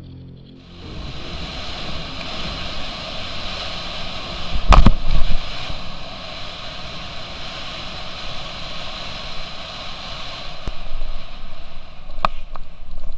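Steady rush of falling water, with a loud thump about five seconds in and a couple of fainter knocks near the end.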